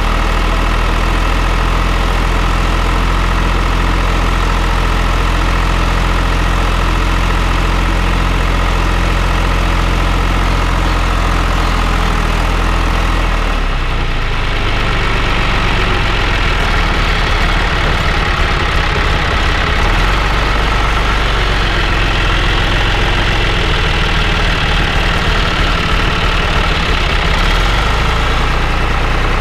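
Tractor diesel engine running steadily while ploughing. About halfway through, the engine note changes abruptly to a lower, rougher sound.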